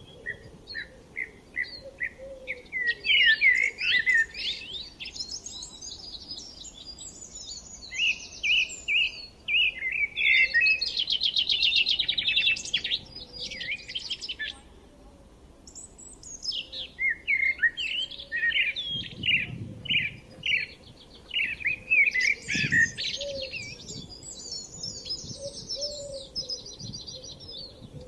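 Several songbirds singing and chirping: quick repeated chirps and rapid trills, with a dense buzzy trill about halfway through.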